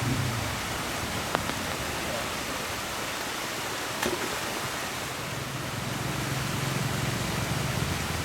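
Steady hiss of heavy rain, with a few sharp taps and a low hum that comes in about halfway through.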